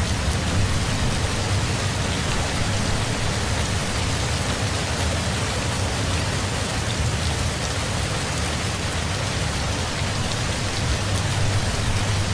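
Steady heavy rain: an even hiss with a low rumble underneath and a few faint drop ticks.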